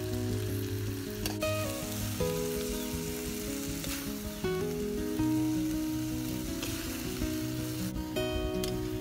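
Pork intestine and salted vegetables sizzling in a wok over a wood fire, with a few knocks of the ladle against the pan, under background music.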